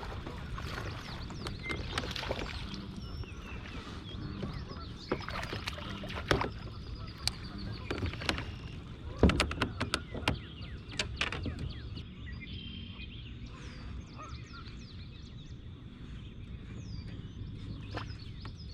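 Sharp knocks and clicks of gear being handled in a fishing kayak, several in the first half and the loudest about nine seconds in, over a steady low rumble of outdoor noise. Birds chirp in the background, mostly in the second half.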